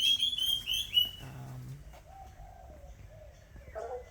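A bird calling close by: a quick run of five or six high, piping whistles in the first second, then a few softer, lower slurred notes later on.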